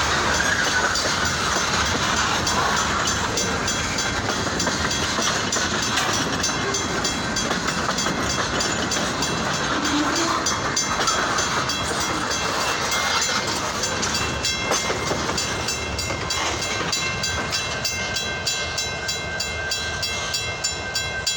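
Freight train cars rolling by, a steady rumble and rattle of steel wheels on the rails. In the last several seconds it turns into a regular run of clicks as the wheels pass over rail joints.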